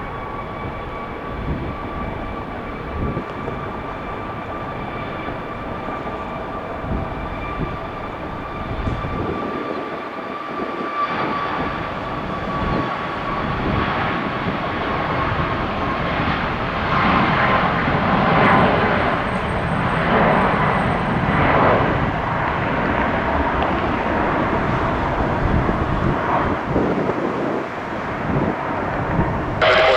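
Boeing 737 MAX 8's CFM LEAP-1B turbofans at takeoff power: a steady engine whine over a jet roar that swells to its loudest about two-thirds of the way through, then eases off.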